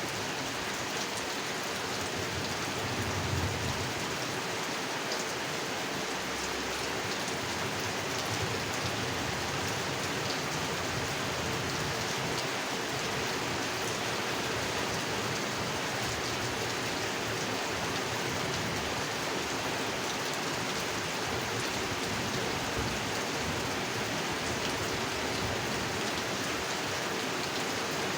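Steady rain falling on a pond, an even hiss of countless drops, with a brief low rumble about three seconds in.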